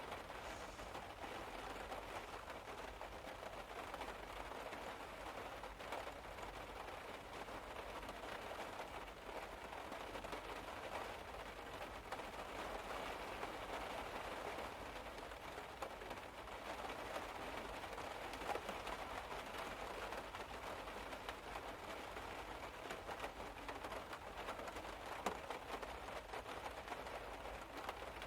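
Rain falling steadily on a car's roof, heard from inside the car as an even hiss dotted with small drop ticks, over a steady low hum.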